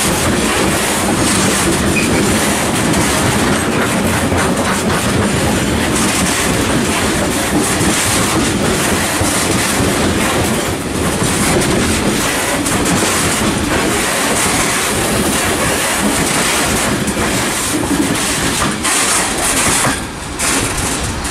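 Loaded freight box wagons rolling past at the platform edge, a steady loud rattle and rumble of wheels on the rails. The noise drops away about twenty seconds in as the last wagon passes.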